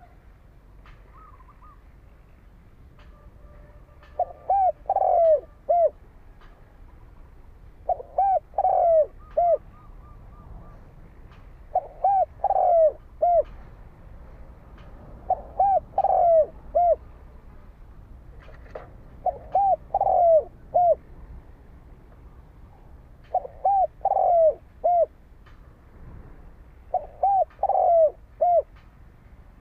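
Spotted dove cooing: seven phrases of four or five short coos, one about every four seconds. It is the challenge coo that keepers play to provoke wild doves toward a decoy, with faint chirps of small birds in between.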